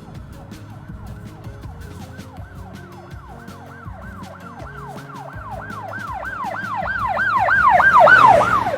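Emergency-vehicle siren sweeping up and down in pitch, about three sweeps a second, growing steadily louder as if approaching, then cutting off abruptly near the end.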